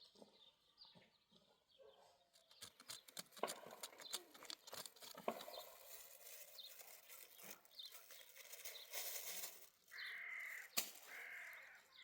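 A bird calls twice near the end, each call about half a second long. Scattered light clicks and knocks come before the calls.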